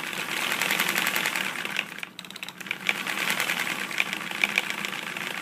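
Lego model diesel engine's plastic pistons and crankshaft clattering quickly. The sound drops away briefly about two seconds in, then settles into an idle with regular knocks about four a second. The knock comes at idle and goes away at higher revs; the builder doesn't know its cause.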